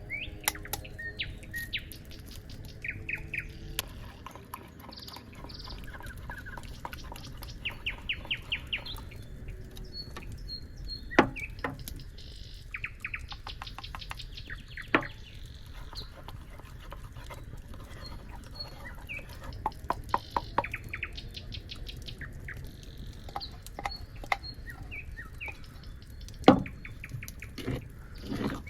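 Small birds chirping and trilling in quick repeated notes, with three sharp knocks standing out over them.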